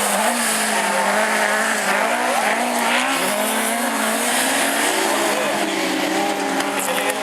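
Several autograss race car engines running hard on the track, their pitch wavering up and down as they rev, over a steady hiss of tyre and track noise.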